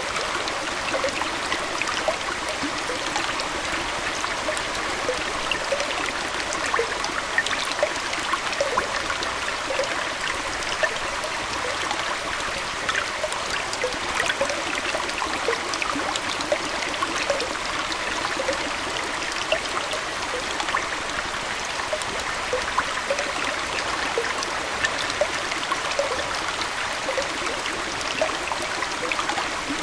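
Aquarium water trickling steadily, like a small indoor stream, with many small drips and splashes scattered through it.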